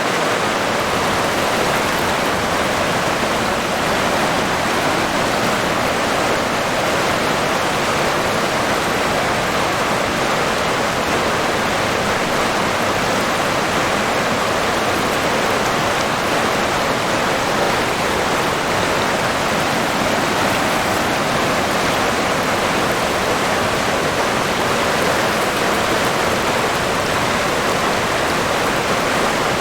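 River water rushing steadily, an even flowing hiss with no breaks or distinct splashes.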